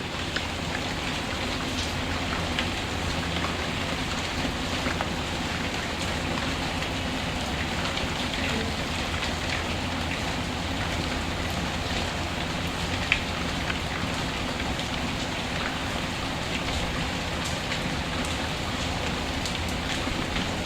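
Steady rain falling, with scattered small ticks and one sharper click about thirteen seconds in.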